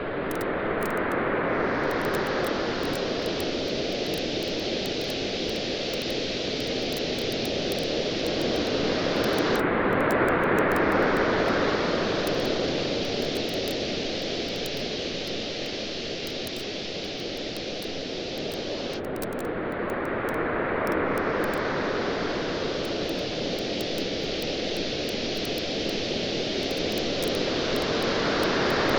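Waves washing onto a beach, surging about every ten seconds, with a bonfire crackling throughout in small, sharp ticks.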